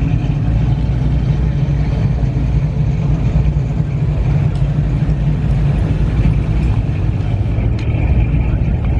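Car engine running steadily: a low, even rumble with no revving.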